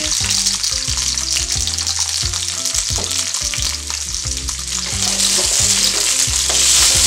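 Chopped bell peppers and onion sizzling in hot oil in a wok. The sizzle gets louder near the end, when a spatula starts stirring them.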